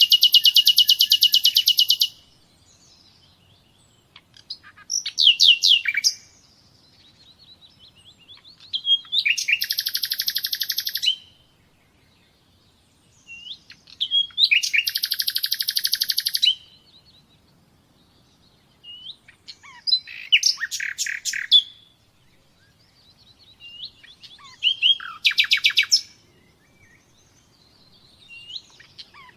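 Songbird singing loud, rapid trilled phrases of one to two seconds each, repeated about every four to five seconds, with softer chirps in between.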